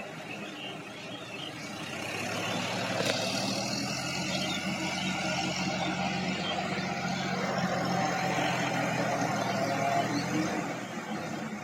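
Sonalika tractor's diesel engine running steadily under the load of puddling a flooded paddy field, growing louder about two seconds in and falling away shortly before the end.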